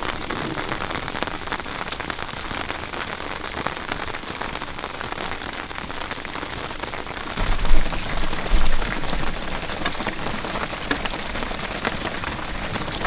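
Heavy rain pouring down, a dense hiss full of fine drop ticks. About halfway through a low rumble comes in, with two loud jolts a second apart.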